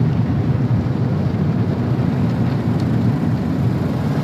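Automatic conveyor car wash working over the car, heard from inside the cabin: a steady, loud noise of spray and washing machinery on the body.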